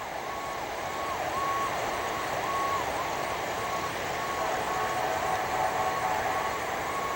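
Vehicle reversing alarm beeping steadily in an even repeating pattern over steady background noise. A second, lower-pitched beeping joins about halfway through.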